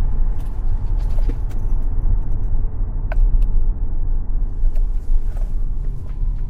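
Inside the cabin of a Tesla Model X at track speed on a wet surface: steady low rumble of road-tyre and wind noise, with no engine sound. A few light knocks and clicks through it, which the driver puts down to an umbrella sliding around in the back of the car.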